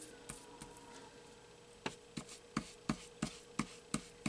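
Paper edges being inked by dabbing an ink pad against them, as light taps about three a second starting about two seconds in, after some quiet paper handling.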